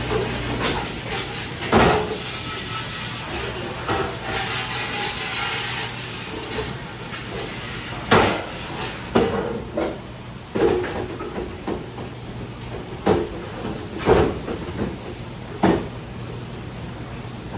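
A series of sharp, irregular knocks and clatters, about half a dozen of them, over a steady low hum that drops away about halfway through.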